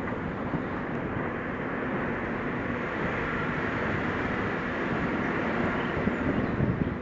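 New-model Suzuki Jimny driving along, a steady mix of engine and road noise.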